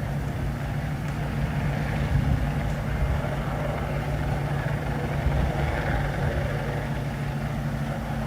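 A steady, low engine rumble with a constant hum, unchanging in pitch.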